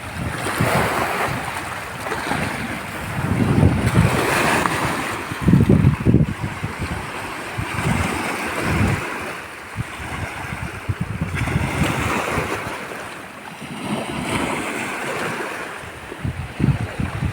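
Sea surf washing on the shore in slow swells, with gusts of wind buffeting the microphone in irregular low rumbles.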